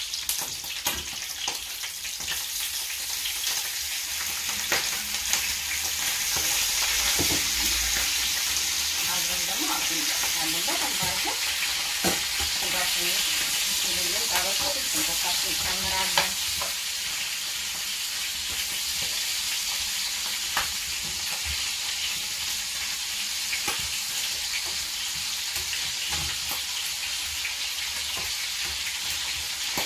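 Lamb ribs and sliced red onion sizzling in hot oil in a frying pan while being stirred, with occasional sharp clicks of a spatula and metal tongs against the pan. The sizzle grows louder about six seconds in and eases after about sixteen seconds.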